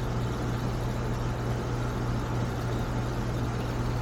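Air-conditioning condenser unit running: a steady low hum with the rush of its fan.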